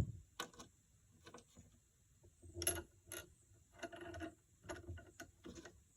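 Metal mounting hardware (bushings, washers and a nut) clicking and clinking as it is handled and fitted onto a threaded stud, in irregular short knocks, the loudest about halfway through.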